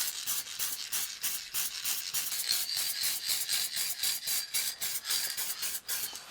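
Fast back-and-forth scraping strokes on the steel exhaust pipe, about five a second, as the weld area is scrubbed by hand before it gets a zinc coating.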